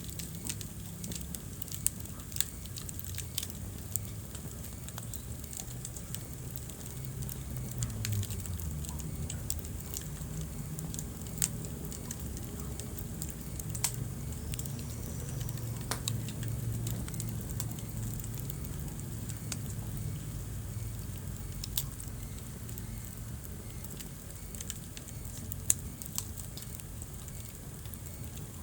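Wood fire burning in a fireplace: a steady low rumble of flames with irregular crackles and sharp pops, a few of them loud.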